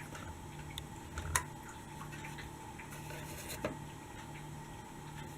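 A few light clicks and knocks, as of hard plastic toy vehicles being handled and set down, over a faint steady hum.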